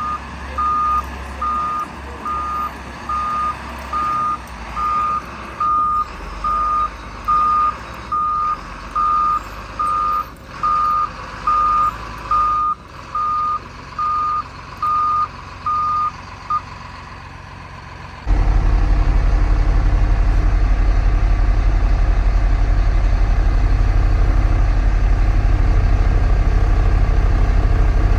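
Backup alarm of a CAT 914 wheel loader beeping steadily, about one beep every 0.8 seconds, while the machine reverses; the beeping stops after about 16 seconds. About 18 seconds in, a loud steady low rumble starts suddenly and runs on.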